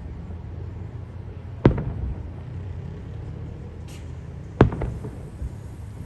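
Aerial firework shells bursting: two sharp booms about three seconds apart, each trailing off in an echo, over a steady low rumble.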